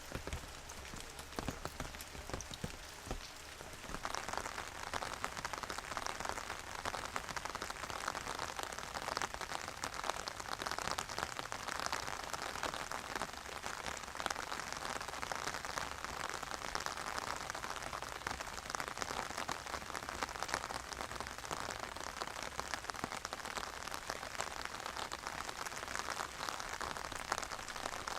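Steady rain falling. For the first few seconds there are separate drop ticks, and about four seconds in it becomes a denser, even patter that holds steady.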